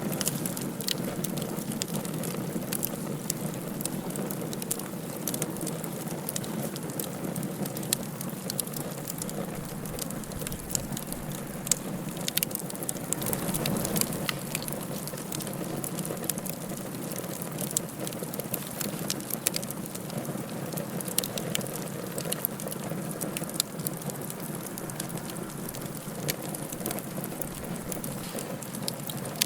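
Wood fire burning in a fireplace: a steady low rushing of flames with frequent small crackles and sharp pops scattered through it.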